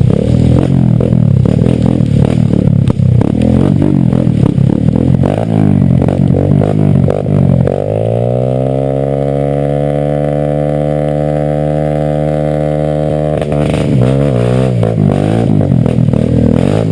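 Dirt motorcycle engine running roughly under load. About 8 s in it drops to a steady idle for several seconds, then revs up and down and pulls away again.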